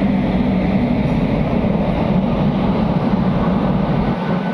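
Goods train running past on the rails: a loud, steady rumble of wagons on the track.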